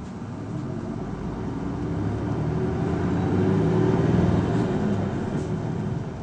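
Diesel engine of an Isuzu Erga city bus (PKG-LV234L2) accelerating, heard from inside the cabin. It grows louder and rises in pitch for about four seconds, then eases off near the end.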